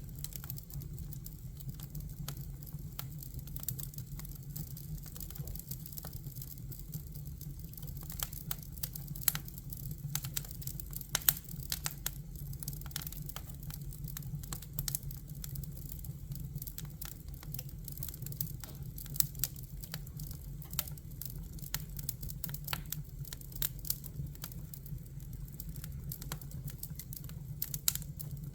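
Fire crackling: a dense, irregular run of small snaps and pops, a few sharper than the rest, over a steady low rumble.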